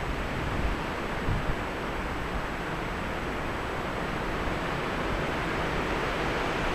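Gusty wind blowing in a steady rush, with low rumbling buffets of wind on the microphone about half a second and a second and a half in.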